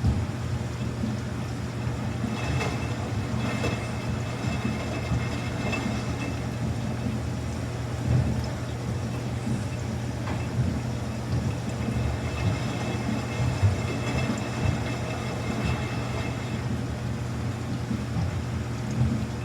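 Samsung front-loading washing machine running: a steady low hum with irregular light knocks as the drum turns, and a faint high whine that comes and goes twice.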